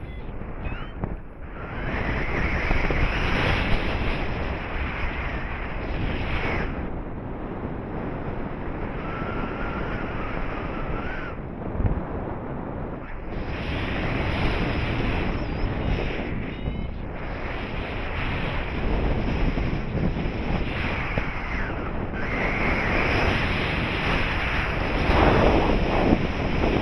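Airflow buffeting the microphone during a paraglider flight: a loud, continuous rush that swells and eases in gusts.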